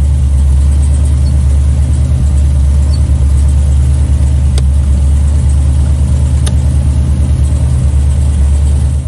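Cutlass's engine idling steadily, with two short clicks about four and a half and six and a half seconds in.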